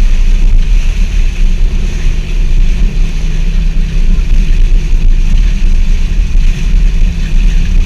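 Off-road 4x4 driving along a trail, its engine and tyres making a steady loud rumble, with heavy wind buffeting on the microphone.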